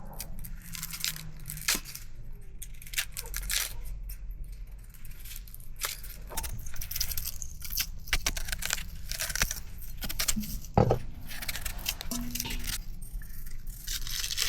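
Irregular small clicks and knocks, as of hard objects being handled, over a low steady rumble.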